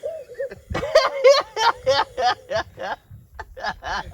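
Men laughing: a run of quick ha-ha bursts, about four a second, a short pause about three seconds in, then more laughter.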